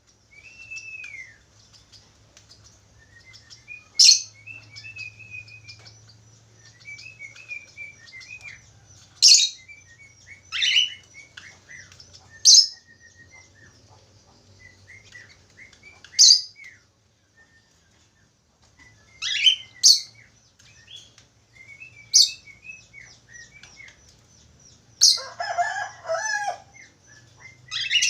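Budgerigars warbling and twittering, with sharp loud chirps every few seconds over soft continuous chatter, and a harsher burst of chatter near the end.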